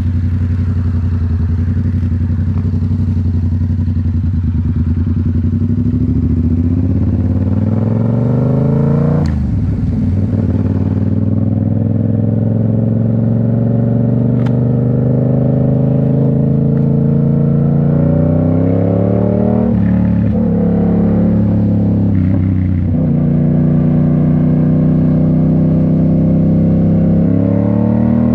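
2019 Yamaha MT-07's 689 cc parallel-twin engine running through a Toce full exhaust while the bike is ridden. Its pitch climbs under acceleration and drops sharply at an upshift about nine seconds in, then dips twice more later as the throttle comes off and goes back on.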